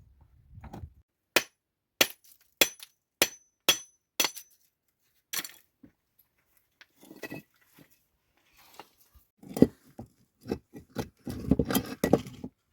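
Hard objects clinking: six sharp clinks with a brief high ring, evenly spaced about every half second, then a louder run of knocks and clatter near the end.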